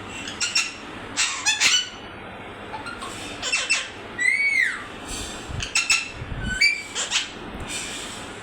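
Pet parrot calling in a string of short, sharp squawks and squeaks, with one longer call about four seconds in that rises and then falls in pitch. A couple of low thumps come in the middle.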